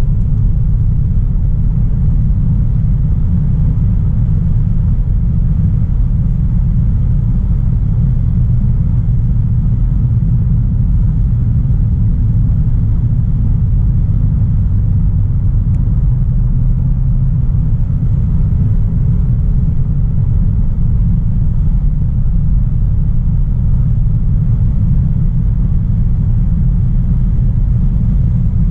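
A 2016 Audi A3 Sportback 1.4 TFSI, a turbocharged four-cylinder petrol car, being driven: a steady low rumble of engine and road noise.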